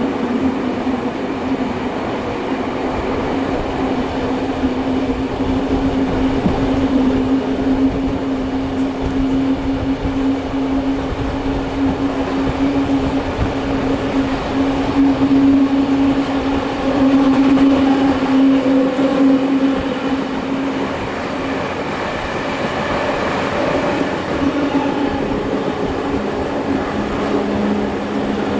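Steam-hauled heritage passenger train running along the track, heard from aboard a carriage: a steady rumble of wheels on rails with a low steady drone that shifts a little in pitch near the end.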